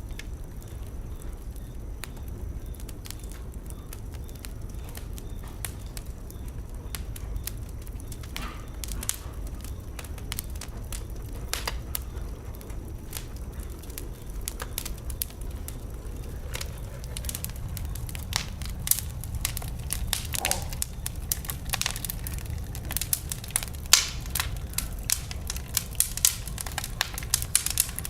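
Wood fire burning in a fireplace: a steady low rumble under scattered crackles and pops, which grow denser in the second half, with one sharper pop a few seconds before the end.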